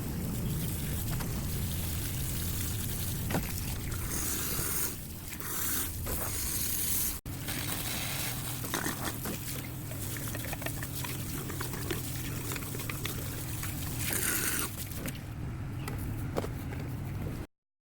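Hands working on a plastic sink drain: small clicks and scraping of pipe parts, with water trickling and pouring in stretches.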